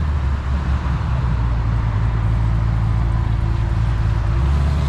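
A vehicle engine running steadily at low revs, a low, even rumble.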